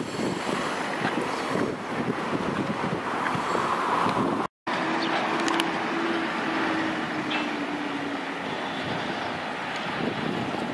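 Wind on the microphone while the camera is carried along. After an abrupt cut, a freight train runs in the distance, with a steady low tone for a few seconds.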